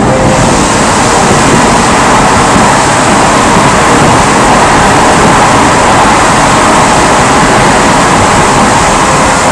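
Steady, loud road noise of a car driving, tyres and wind rushing, picked up by a dashcam microphone inside the car.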